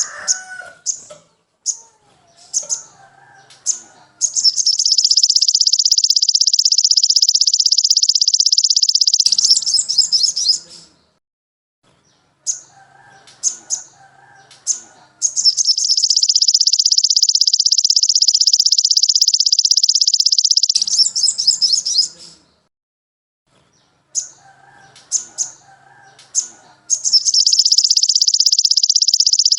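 Looped songbird tutor recording. Each round opens with a few short, sharp chirps over soft twittering, then runs into a long, very high, unbroken trill of about five seconds that ends in a short rattly phrase. The cycle plays three times.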